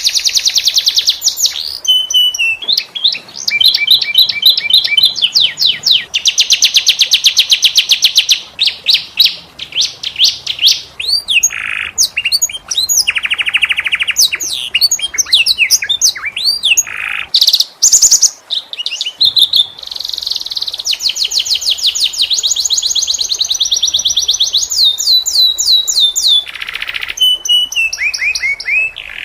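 Domestic canary singing continuously: long rolling trills of rapidly repeated high notes alternating with quick swooping whistles, phrase after phrase with only brief breaks.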